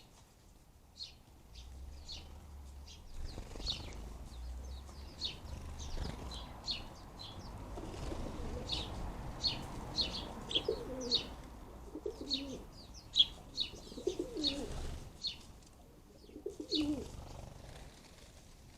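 House sparrows chirping, many short high chirps in quick succession, with a dove cooing low four times in the second half.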